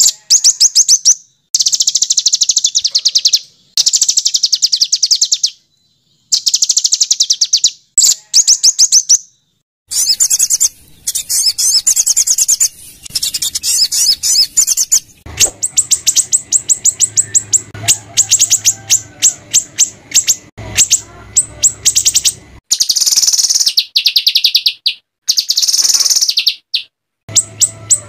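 Small songbirds giving harsh, rapid-fire bursts of high chirps, many notes a second, in trains of one to three seconds broken by abrupt cuts: a looped masteran recording of rough 'tembakan' calls used to train caged white-rumped shamas.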